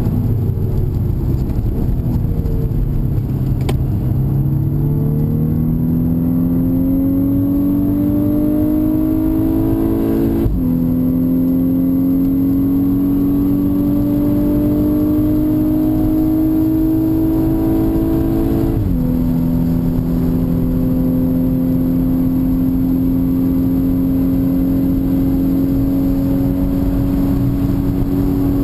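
2011 VW Golf VI R's turbocharged 2.0-litre four-cylinder engine, heard from inside the cabin. Its note falls for the first few seconds, then climbs under acceleration. It drops sharply at an upshift about ten seconds in, climbs again, and drops at a second upshift about two-thirds of the way through, then holds nearly steady, over constant tyre and road rumble.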